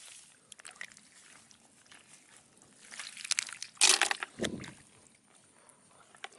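Water sloshing and splashing: small scattered clicks and drips, then a louder rush of splashing that peaks about four seconds in and dies away.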